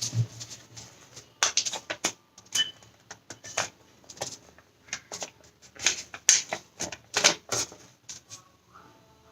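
Sheet of origami paper crackling and rustling as it is handled, folded and creased by hand, in irregular sharp crinkles that are loudest near the end.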